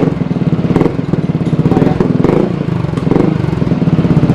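Yamaha XMAX 250 scooter's single-cylinder four-stroke engine running through an aftermarket Smoke slip-on muffler, a steady pulsing exhaust note at idle that swells briefly several times.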